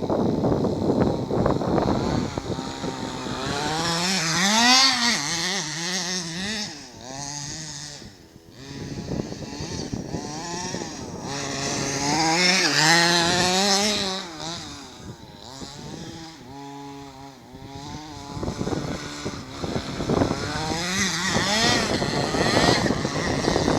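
Small two-stroke engine of a Pitbull X 4WD RC car with a banana tuned exhaust, revving up and down again and again as the car is driven, its pitch rising and falling. It drops back twice to a lower, steadier note before revving hard again.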